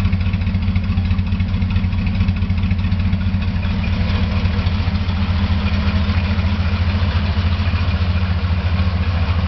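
1956 Chrysler 354 cubic-inch Hemi V8 idling steadily through exhaust pipes that exit on both sides, with an even, rapid pulse and no change in speed.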